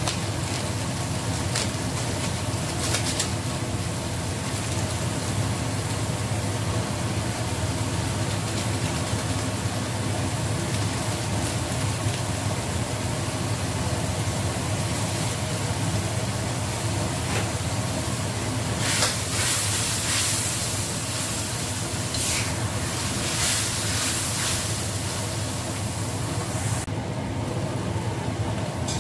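Blended chili paste sizzling and frying in a steel wok over a gas burner, with a few sharp spattering crackles in the latter half. A steady low hum runs underneath.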